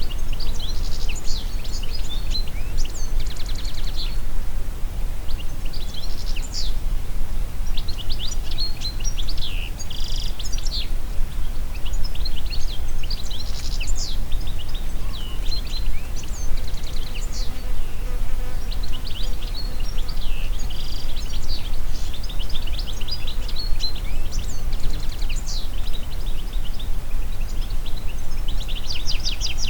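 Several birds singing and calling in a forest, with many short chirps and trills overlapping throughout, over a steady low rumble of wind.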